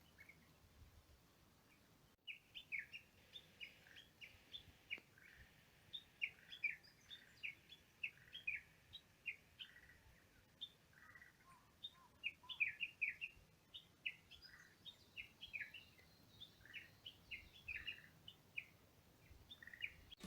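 Small birds chirping: a quick, busy run of short, high chirps, several a second, that starts about two seconds in after near silence.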